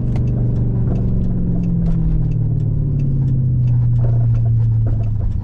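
Dodge Charger R/T's 5.7-litre Hemi V8 running through newly fitted glasspack mufflers in place of a straight-piped exhaust. Its pitch eases down from a light rev over the first few seconds and settles into a steady idle rumble, with scattered light ticks over it.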